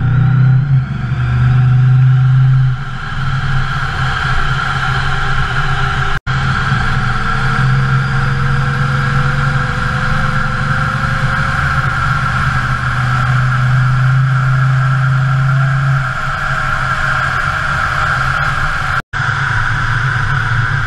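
1968 Pontiac LeMans engine running at steady cruising speed, with wind and road noise over the microphone. The sound drops out for an instant twice, about six seconds in and near the end.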